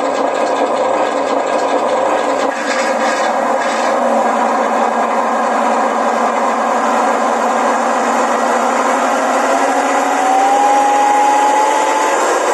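Sound module's recording of a ZIL-130 V8 engine played through the model's small speaker, its revs following the throttle. Underneath runs the whine of the RC truck's electric motor and gears driving the wheels, which spin freely off the ground. A tone climbs slowly in pitch from about three-quarters of the way through.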